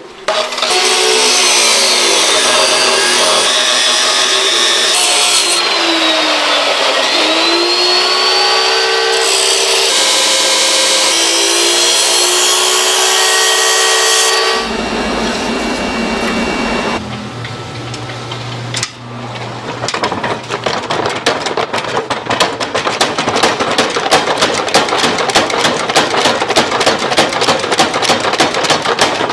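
A power tool runs for about fourteen seconds, its pitch dipping and rising as it works. A low hum follows, and from about twenty seconds in there is rapid, steady tapping.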